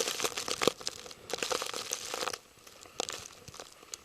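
Footsteps crunching through fresh, wet snow in irregular crackly bursts, with a short lull about two and a half seconds in.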